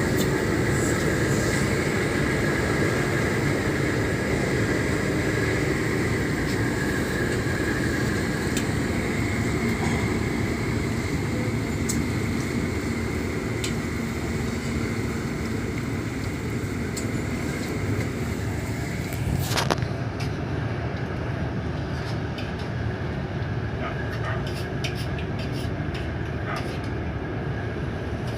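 Steady low rumble of ships' diesel engines running in a harbour, with a hiss over it. About two-thirds of the way through there is a sharp click and the hiss drops away suddenly, leaving the rumble.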